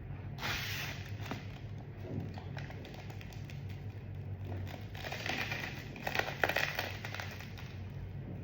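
Crinkling and crackling of a bánh mì being handled in its wrapper and broken into: a short burst about half a second in, then a longer stretch of crackling from about five seconds in, over a steady low hum.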